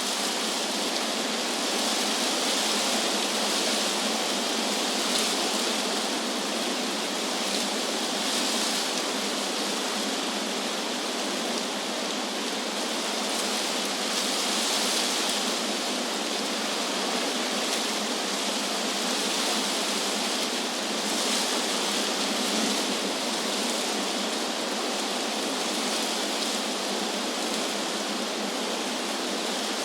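Wind blowing through trees: a steady rushing hiss of moving leaves and branches, with slight swells every few seconds.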